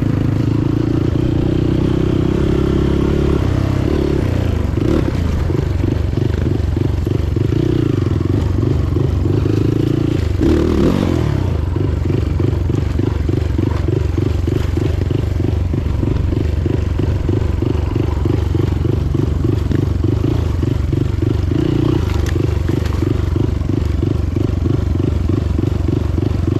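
Motorcycle engine running steadily under way, a fast even pulse to its note, with a brief louder burst about ten seconds in.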